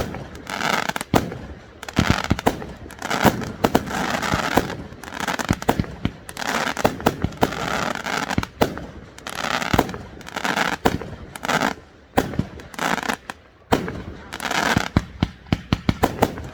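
Fireworks going off in quick succession: many sharp bangs, at times several to a second, between longer noisy stretches.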